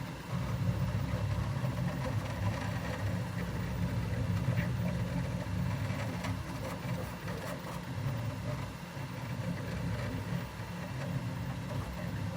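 A vehicle running steadily with a low rumble and a dragging, grinding noise.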